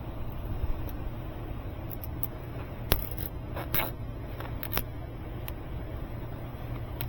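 Steady low hum of the running air-conditioning system, with a few sharp clicks and snaps in the middle, the sound of zip ties being pulled tight and trimmed.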